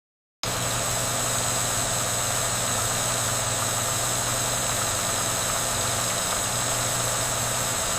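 A machine running steadily with a low hum, cutting in abruptly about half a second in.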